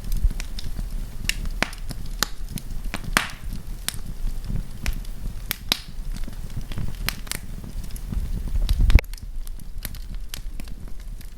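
Wood campfire crackling, with irregular sharp pops over a low rumble. The rumble builds to the loudest moment about nine seconds in, then drops off suddenly.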